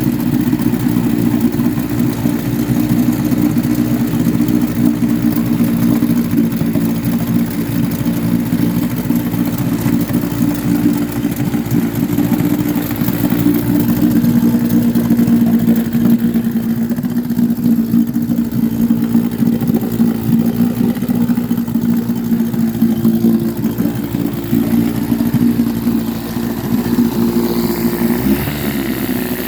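1953 Scott-Atwater Gold Pennant 7-1/2 hp two-stroke outboard motor running steadily at a constant speed, changing pitch near the end.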